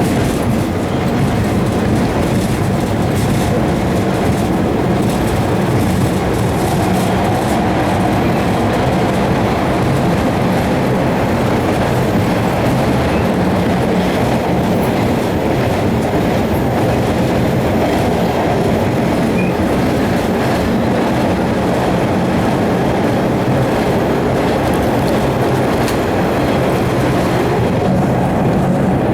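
MBTA Red Line subway train running on the rails, heard from inside the car: a steady, loud rumble of wheels on track with a low hum underneath.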